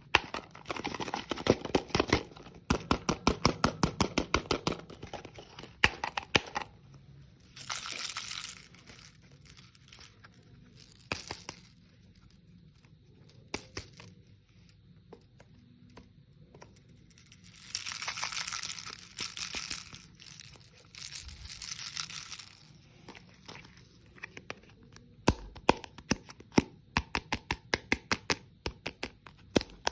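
Hard candy crunching and cracking. A rapid run of crisp cracks fills the first six seconds, then come several longer crinkling, tearing bursts, and scattered sharp cracks near the end.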